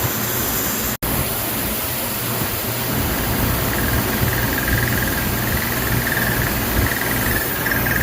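CNC mill cutting with a solid carbide end mill, a steady hiss and hum of machine noise. About four seconds in, a high pulsing squeal joins in: the end mill chattering in the cut.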